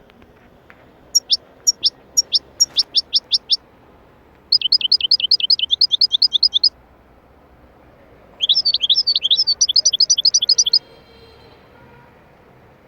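A small songbird singing three phrases with pauses between them. The first is a run of about ten quick downward-sweeping notes, and the other two are rapid high trills.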